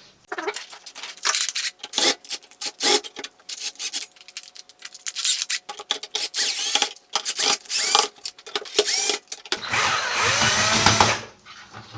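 Plastic and metal clicks and scrapes of a CPU cooler and fan being unfastened and pulled off a motherboard, with a longer squeaky rubbing and scraping about ten seconds in.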